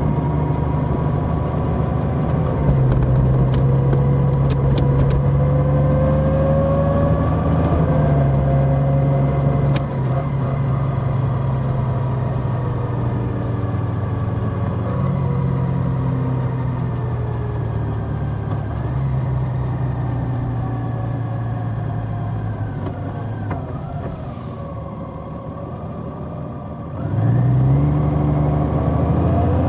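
Large motorcycle engine running under way, holding a fairly steady pitch with small shifts. A few seconds before the end it eases off, then picks up and revs rising again.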